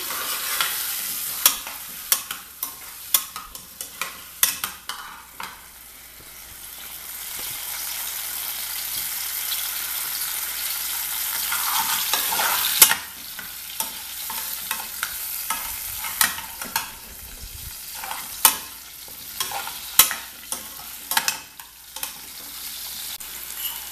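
Whole pequi fruits frying in hot oil in a metal saucepan, with a steady sizzle that swells toward the middle. A metal spoon clinks and scrapes against the pan many times as the fruits are stirred and turned.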